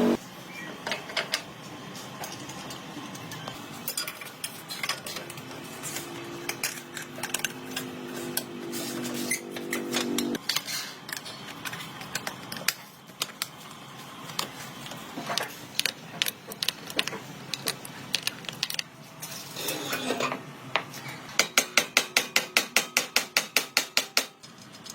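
Hand tools working on metal motorcycle parts: scattered clicks and taps, with a steady hum for about four seconds in the first half. Near the end comes a quick even run of ratchet-like clicks, about five a second, for some three seconds.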